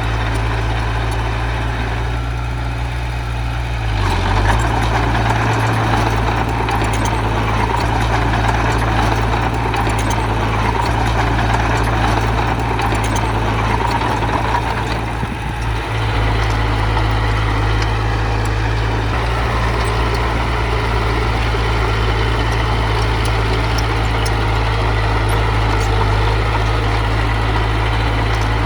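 Heavy diesel engine of an earth-moving machine running steadily, picking up a few seconds in and dipping briefly about halfway through.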